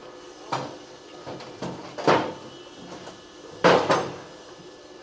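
A handful of knocks and clunks as things are handled and moved about, the loudest a double knock about three and a half seconds in.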